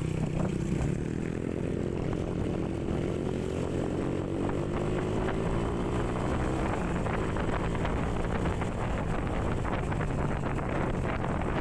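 Motorcycle engine pulling while riding, its pitch rising over the first few seconds as it accelerates, then holding steadier, with wind buffeting the microphone.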